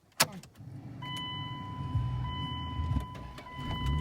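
A click, then an old truck's engine starting and settling into a steady running rumble. From about a second in, a steady high-pitched electronic tone sounds over it.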